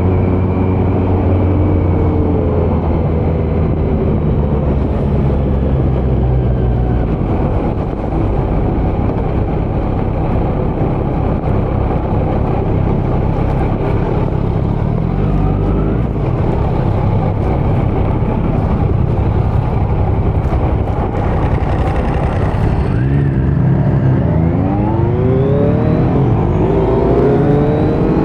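Kawasaki Z900 inline-four running through a Leo Vince muffler with no dB killer, heard from the saddle while riding. The engine note drops at the start, holds fairly steady through the middle, then climbs in rising revs near the end as the bike accelerates.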